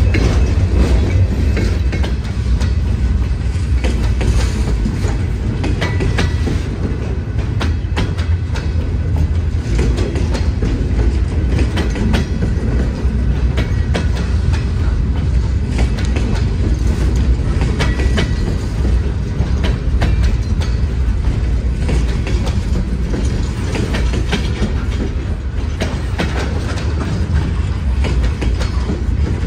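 Freight train cars rolling past, a steady low rumble with frequent clicks of steel wheels over rail joints.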